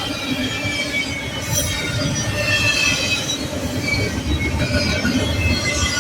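Freight train cars rolling steadily past, a continuous rumble with high, scattered wheel squeal.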